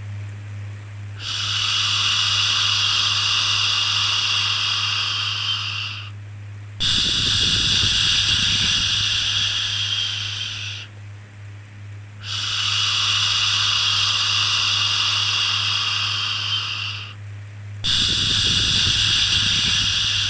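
Long, drawn-out 'shhh' shushing sounds for soothing a baby, repeated four times, each lasting about four to five seconds with a short breath-like pause between. A steady low hum runs underneath.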